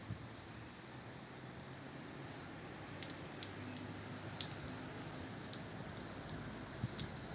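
Small birds making scattered short, sharp chips and clicks, a few seconds apart, over a faint low hum.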